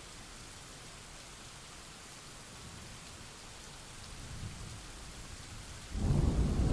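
Steady rain hissing, with a faint low rumble of thunder about four seconds in, then a sudden loud thunderclap near the end that keeps rumbling.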